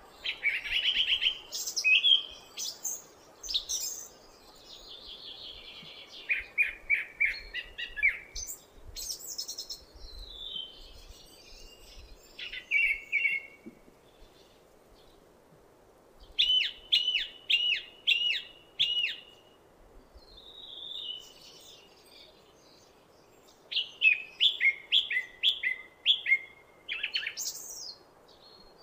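Song thrush singing: a run of short phrases, each made of one clear note repeated several times in quick succession, with each phrase different from the last and short pauses between them.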